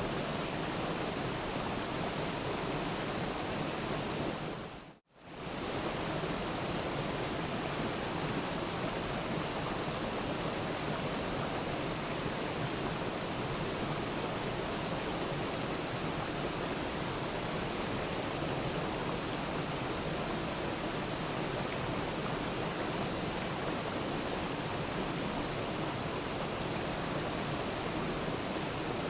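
Waterfall: a steady rush of falling water. About five seconds in it fades out to silence for a moment and quickly comes back up.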